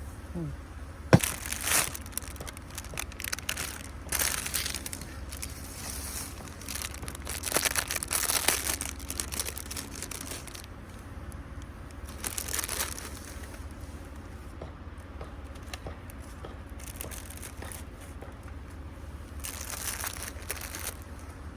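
Irregular bursts of crinkling and rustling handling noise, with one sharp click about a second in, over a steady low hum.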